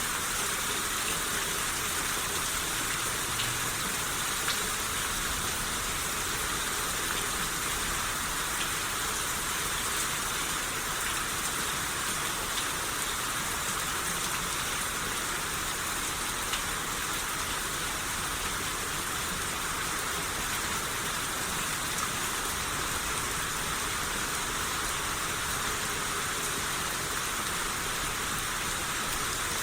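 Steady rain falling, an even patter with occasional single drops standing out.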